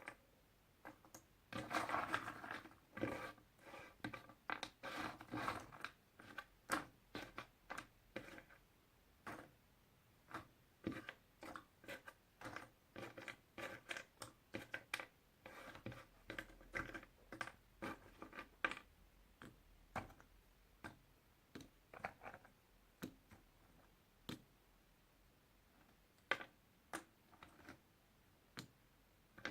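Puzzle pieces being handled: a dense run of clicks, rubbing and scratching for the first few seconds, then sparser light taps and clicks as pieces are set down and fitted, with a few short pauses near the end.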